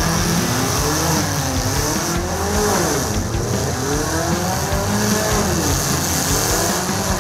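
Several demolition derby cars' engines revving together on the dirt arena, their pitches rising and falling over one another as the drivers throttle up and back off.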